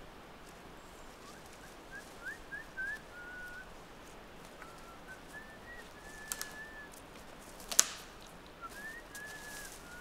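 A bird calling in thin, high whistled notes: short slides and brief held tones in scattered phrases. A few sharp clicks stand out, the loudest a single snap about eight seconds in.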